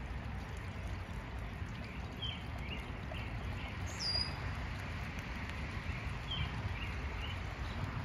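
Small birds chirping over a steady low rumble: a run of four or five short chirps about two seconds in, another near the end, and a single high falling whistle midway.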